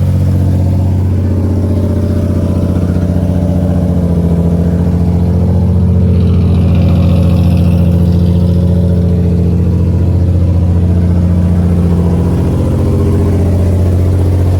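Nissan 350Z's 3.5-litre VQ V6 idling steadily through a full exhaust, just after being started; it runs a little louder for a few seconds in the middle.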